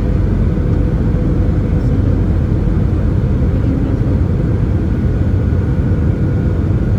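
Steady cabin noise inside an Airbus A320-200 with CFM56 engines: a continuous low rumble of engines and airflow, with a faint steady hum.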